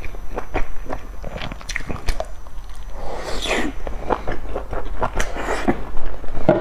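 Close-miked eating sounds of a dumpling dipped in chili sauce: a bite, then wet chewing with many small mouth clicks and smacks. About three seconds in there is a brief falling whoosh.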